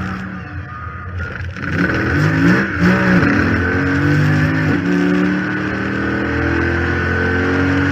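2014 Chrysler 300 SRT8's 6.4-litre HEMI V8 on track, lighter for the first second or so, then getting louder from about two seconds in, its pitch dipping and shifting around three seconds before climbing steadily under acceleration. A high whine rides over it, which the owner puts down to the failed power steering pump and likens to a Hellcat's supercharger.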